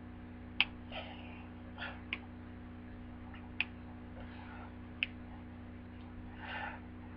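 A quiet room with a steady low hum, broken by four short sharp ticks evenly spaced about a second and a half apart, and a soft breath-like sound near the end.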